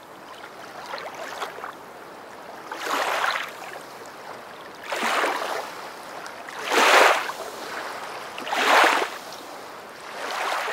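Rushing water that swells and fades about every two seconds, like small waves washing in.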